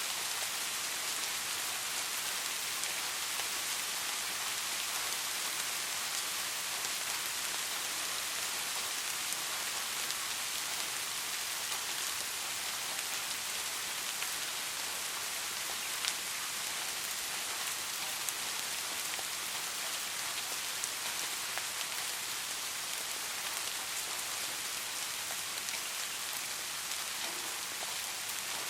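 Steady soft rain falling, an even hiss with scattered drops ticking.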